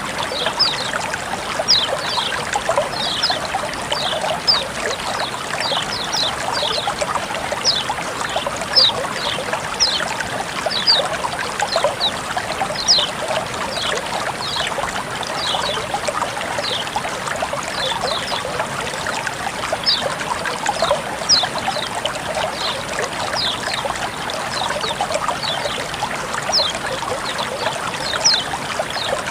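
Water running and trickling steadily, with many small high plinks of droplets scattered through it.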